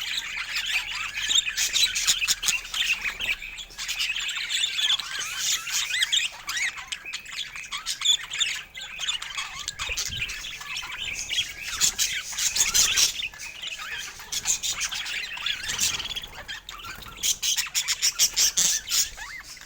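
Budgerigars chattering, with continual overlapping chirps and sharp squawks.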